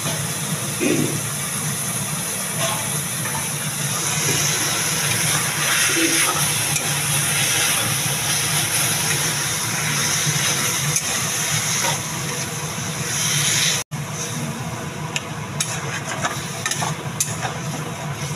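Greens and dal pakoras frying in a wok, a steady sizzling hiss. After a momentary break near the end, a metal spatula clicks and scrapes against the wok as the food is stirred.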